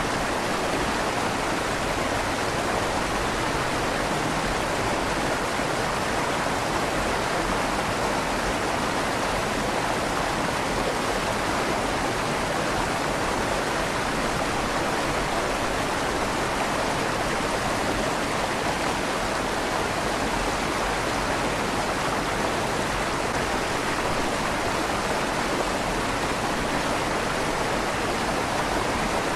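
River water flowing and splashing through a stone tunnel under a bridge, a steady rush with a slight echo off the stone walls.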